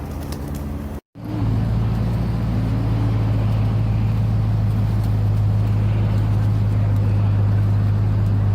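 Steady motor-vehicle running noise: a constant low hum over an even rush of noise, after a sharp edit cut about a second in.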